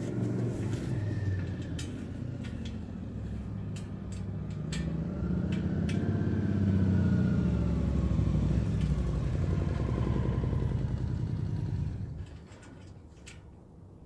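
A motor vehicle going by: a low engine and road rumble that swells to its loudest in the middle, with a faint pitch that rises and then falls, and drops away suddenly near the end. Scattered sharp clicks sound over it.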